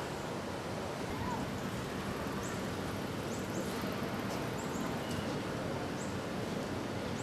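Steady hissing background noise with faint voices in it, and a few tiny high chirps scattered through the middle.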